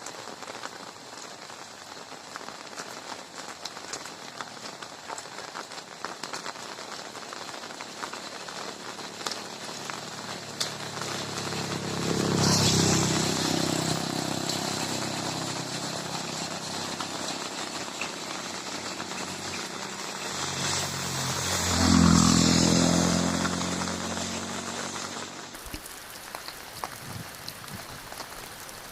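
Steady rain falling. Twice, about twelve seconds in and again about twenty-two seconds in, a passing vehicle's engine swells up over the rain and fades away, the second pass the louder.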